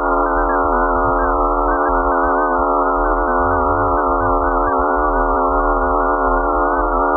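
Space-data sonification: an electronic drone of many stacked steady tones that waver slightly, held throughout.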